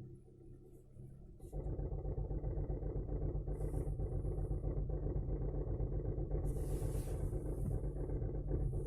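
Lada Vesta's VAZ-21129 1.6-litre sixteen-valve four-cylinder engine running after a cold start. About one and a half seconds in it breaks into a loud, rough rumbling clatter. This is an unexplained abnormal noise whose cause the owner does not know.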